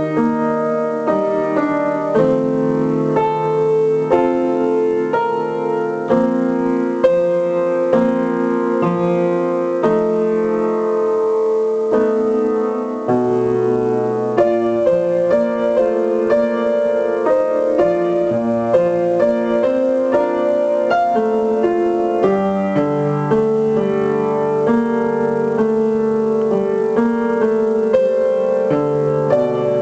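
Piano playing a slow ballad melody over sustained chords, each note held and changing about once a second.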